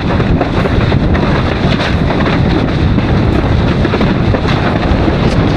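Heavy, steady wind buffeting the microphone as a windsurfer races at speed in high wind, with the rush of water under the board.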